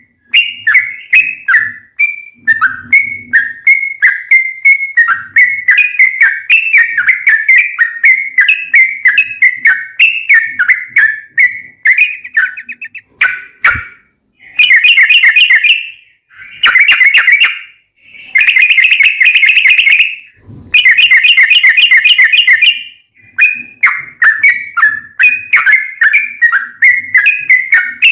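Yellow-vented bulbul (trucukan) singing a fast, continuous run of short whistled notes. Midway the run is broken by four harsh, buzzy chattering bursts, each a second or two long, before the quick notes return.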